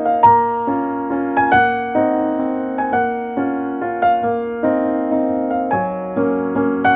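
Background music: piano playing a gentle piece of repeated notes, about two a second, each note struck and left to ring.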